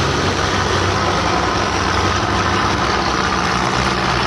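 Belarus 510 tractor's diesel engine running steadily.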